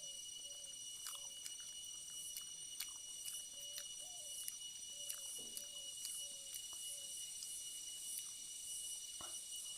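Close-up chewing of boiled vegetables, with scattered sharp mouth clicks, over a steady high-pitched whine. Short soft chirps repeat about twice a second in the background.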